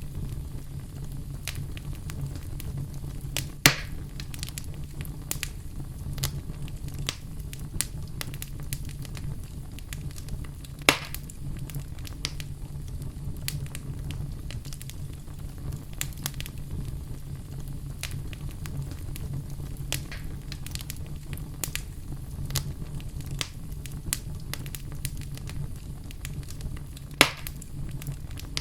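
Wood fire burning in a fireplace: a steady low rumble of the flames with frequent small crackles, and three loud sharp pops, at about 4, 11 and 27 seconds in.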